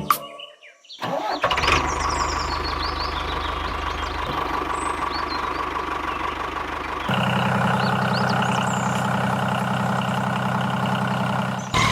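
A small motor runs steadily, starting about a second in. About six seconds in it shifts to a louder, deeper note, and it cuts off suddenly near the end. Birds chirp faintly behind it.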